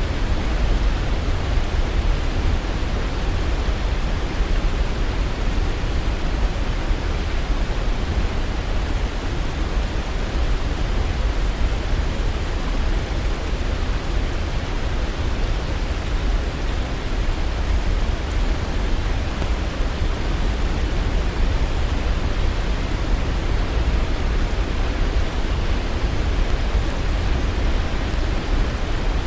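Waterfall: a steady, unbroken rush of falling water with a deep low rumble.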